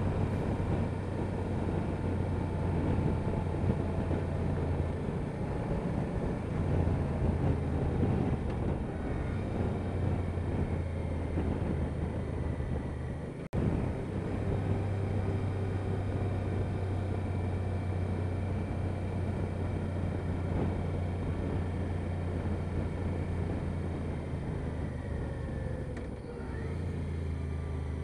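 Honda Deauville NT650V motorcycle's V-twin engine running steadily while under way, with road and wind noise over it. The sound cuts out for an instant about halfway through.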